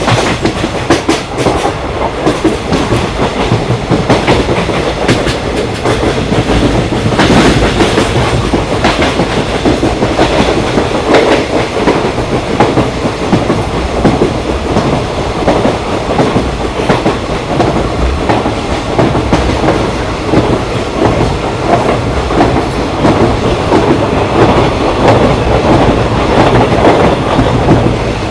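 Train running along the track, heard from a rail car: a steady rumble with the clickety-clack of wheels over rail joints.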